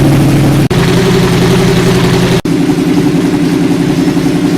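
2015 Yamaha R1's inline-four engine idling steadily just after being started for the first time following a crankcase repair. The sound breaks off for an instant twice, with a slight change in pitch each time.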